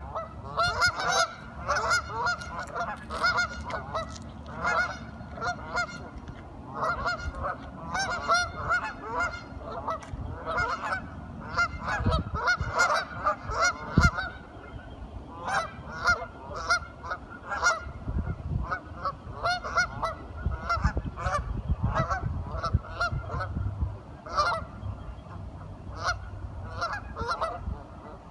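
A flock of waterfowl calling nonstop, many short honking quacks overlapping in a busy chatter. There is a sharp knock about halfway through.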